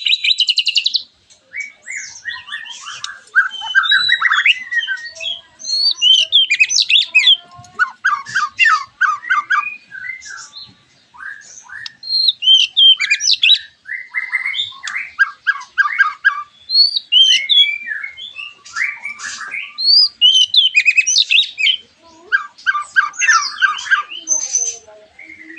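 White-rumped shamas singing loudly in a dense, unbroken string of varied phrases: clear whistled slurs, rapid repeated trills and chattering notes from several birds at once. This is the agitated 'abragan' song that keepers play to get a caged shama to answer and sing.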